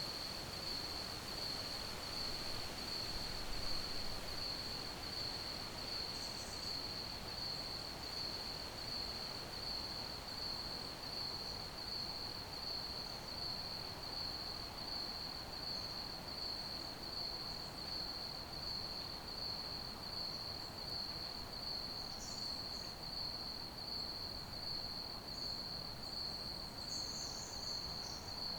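Crickets chirping in a steady, evenly pulsing high trill on one pitch, over a continuous soft hiss. A few brief, higher chirps break in now and then, most of them near the end.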